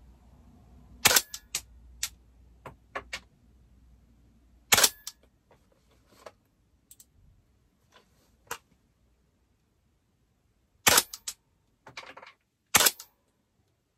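DAS GDR416 airsoft rifle firing single shots a few seconds apart while its scope is zeroed. Each sharp crack is followed by a few smaller clicks.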